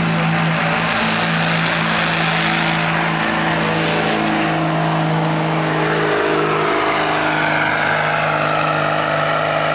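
Competition pulling truck's engine running hard at high, steady revs under heavy load while it drags the weighted sled. The pitch dips slightly right at the start, then holds.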